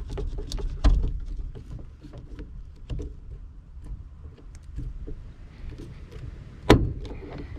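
Hand rivet nut (nutsert) tool being handled and screwed, making scattered small clicks and knocks, with a louder knock about a second in and a sharp loud knock near the end.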